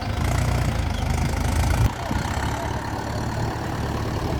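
Mahindra tractor's diesel engine running with a low, even pulse, loud at first and dropping suddenly in level about two seconds in.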